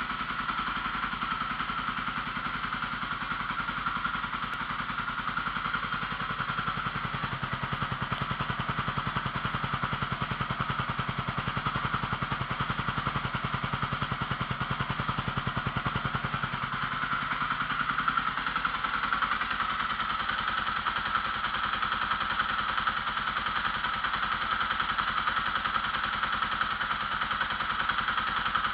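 Kawasaki KLX300R dirt bike's single-cylinder four-stroke engine idling steadily, its note shifting slightly a little past halfway.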